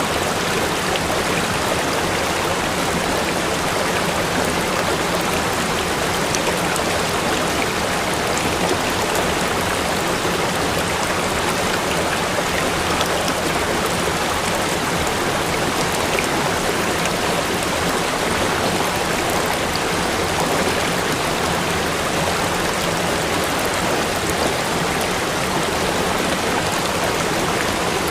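River waterfall rushing, a steady, even wash of falling and running water that does not change.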